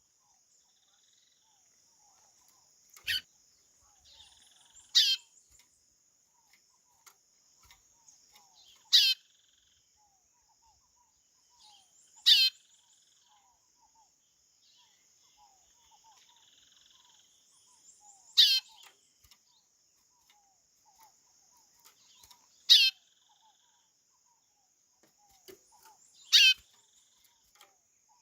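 Chorão (white-bellied seedeater) calling: a short high whistle that falls steeply in pitch, repeated seven times every few seconds, over a faint steady high insect hiss.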